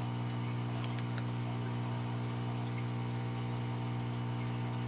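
A steady mechanical hum with several even overtones, and a couple of faint ticks about a second in.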